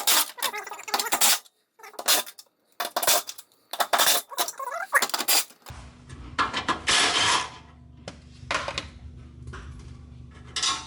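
Short metallic clinks and clatters of hand tools and bolts while braces are unbolted from under a car, coming as a string of separate bursts. A steady low hum joins about halfway through.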